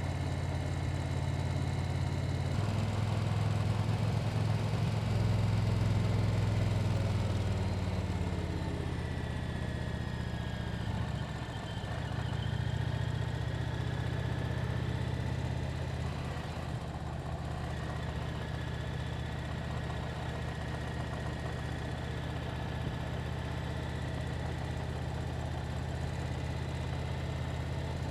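Motorcycle engine running steadily, heard from the bike. Its pitch steps up a few seconds in and drops back around the middle, as the engine speed changes.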